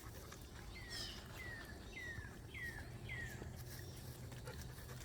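A bird calling: one high falling note, then a quick run of five short, clear, downslurred whistles, about two a second.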